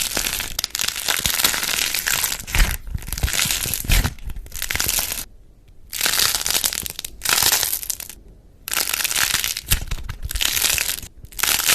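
Dense crackling and crunching as something is squeezed and crushed by hand, coming in bursts with two brief pauses.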